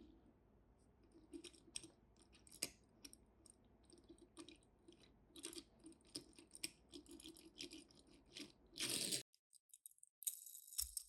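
Faint, scattered clicks and rattles of small die-cast Tomica minicars and their packaging being handled, with a louder burst of rustling about nine seconds in.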